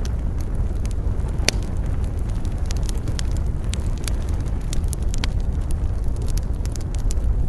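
Wood campfire burning, crackling with irregular sharp pops and snaps over a steady deep rumble.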